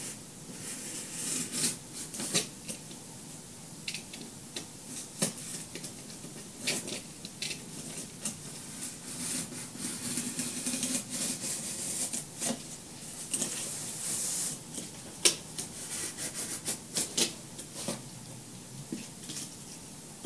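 X-Acto craft knife cutting through cardboard: irregular short scraping strokes with sharp clicks as the blade drags and catches.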